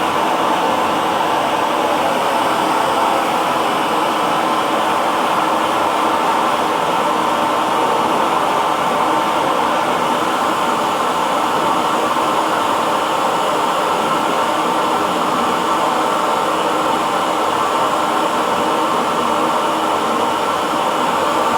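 Hair dryer running steadily: an even, unchanging rush of air with a faint motor hum.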